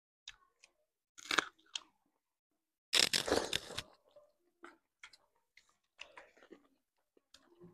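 Close-miked eating sounds: people chewing and crunching mouthfuls of food in short, scattered bursts, loudest about three seconds in.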